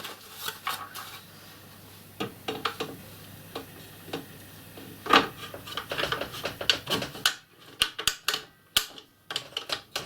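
Table saw blade guard and dust extractor hood being fitted and adjusted by hand: scattered clicks and knocks of the parts, with one louder knock about five seconds in.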